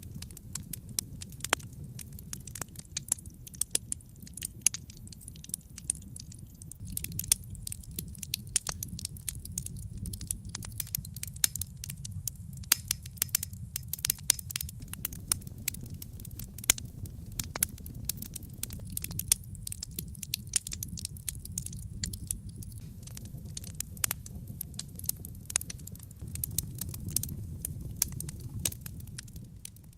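Wood fire in a fireplace crackling: dense, irregular sharp pops and snaps of varying loudness over a steady low rumble.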